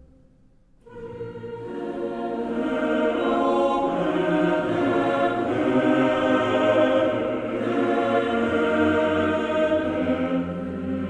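Choral music: voices holding long, steady chords. It comes in about a second in after a brief lull, then builds and stays full.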